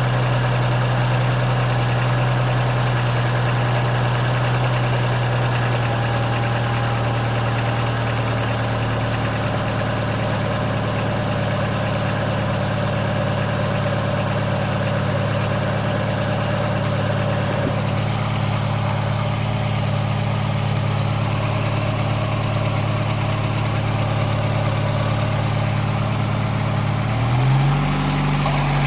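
Ford Fiesta mk4's 1.3-litre Endura-E four-cylinder engine idling steadily with a rattle from the valve train that has come back soon after the valve clearances were adjusted. Near the end the engine is briefly revved and drops back to idle.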